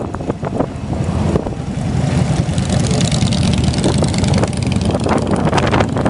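Harley-Davidson V-twin motorcycle engine running, a steady low-pitched sound with irregular crackle above it.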